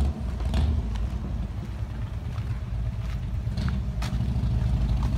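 Car engine running, a steady low rumble with a few faint clicks over it.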